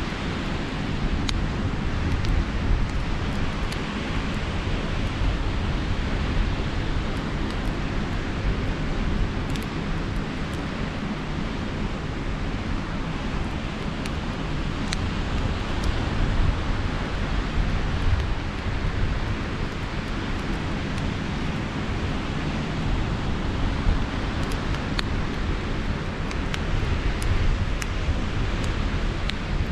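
Sea surf washing steadily, with wind buffeting the microphone in a low rumble. A few faint sharp crackles from the campfire are scattered through it.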